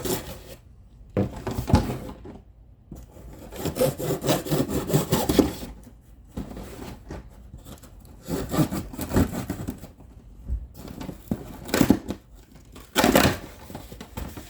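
A cardboard shipping box being opened and its packaging handled: irregular bouts of scraping, rustling and tearing, with short pauses between them.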